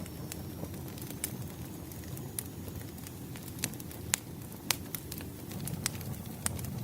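Wood fire burning: a steady low rush of flame with sharp pops from the crackling logs, about seven of them, the loudest about four seconds in.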